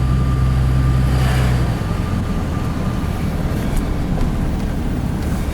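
Pickup truck's engine running with road noise; the low engine drone drops in pitch about two seconds in.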